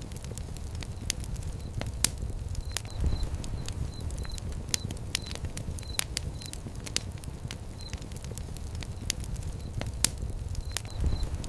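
Fire pit burning with irregular sharp crackles and pops, several a second, over a steady low rumble of flames.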